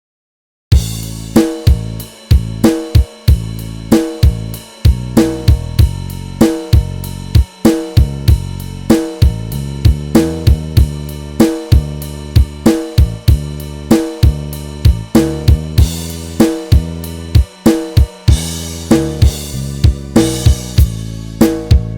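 A rock backing track with the guitar removed: a drum kit with snare, hi-hat, kick and cymbals plays a steady beat over sustained low bass notes, starting about a second in after silence.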